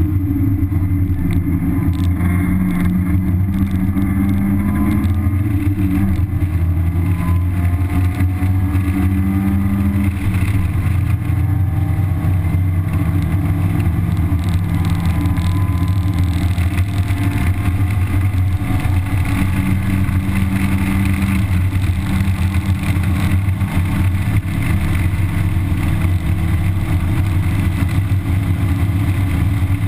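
A 1991 Mazda Miata's 1.6-litre four-cylinder with stock exhaust pulling at speed on track, heard from inside the cabin along with wind and road noise. Its pitch climbs in a few rising sweeps.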